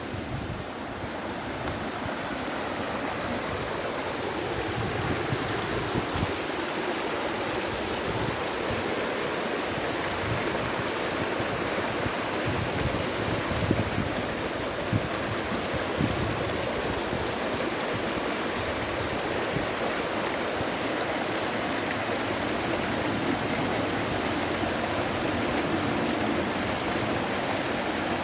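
Running water, a steady unbroken rushing with no pause or change in level.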